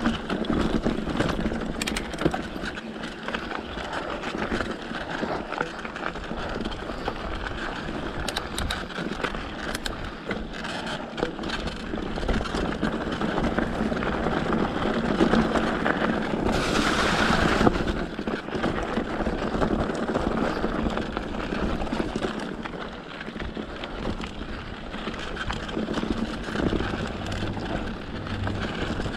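Mountain bike riding over a dirt trail: continuous tyre and chassis rattle with wind on the microphone and a steady low hum, and a louder rush of wind about two-thirds of the way through.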